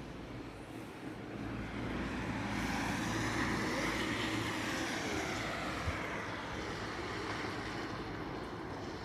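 A passing vehicle: a broad rushing noise that swells towards the middle and slowly eases, with a tone sweeping up and then down through it.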